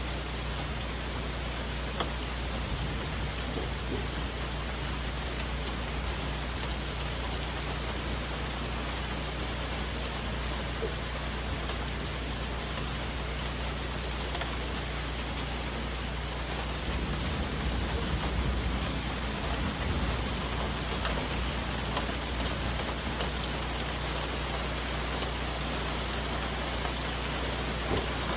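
Steady rain falling on forest leaves, with individual drops ticking sharply now and then. Past the middle a low rumble of distant thunder swells for a few seconds.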